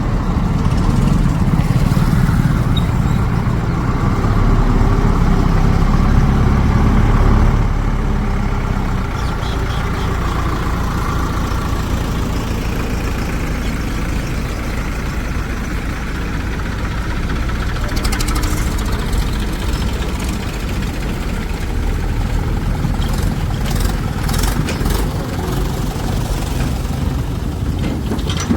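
Heavy diesel engine of a tractor or backhoe loader running, louder for the first several seconds and then settling lower and steadier, with a few light clanks in the second half.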